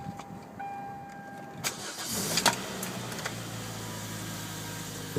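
A steady electronic warning chime in the car sounds until about a second and a half in. The 2011 Kia Sportage's 2.4-litre DOHC four-cylinder then cranks and fires about two seconds in, and settles into a steady idle.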